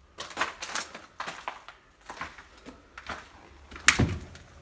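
Footsteps crunching and scuffing on a hard floor, a step every half second to a second, with one louder thump near the end.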